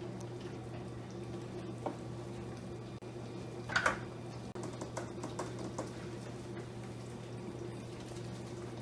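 Pot simmering on a kitchen stove: a steady low hum with faint bubbling, a few light clicks, and one louder clink about four seconds in.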